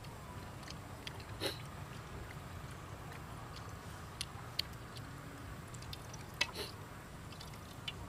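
A person chewing a cooked egg: soft, scattered mouth clicks and smacks, the strongest about a second and a half in, over a low steady background rumble.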